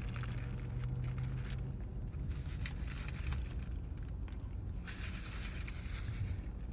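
Eating sounds: a burger being chewed, with short crackles and clicks that come and go, over a low steady rumble.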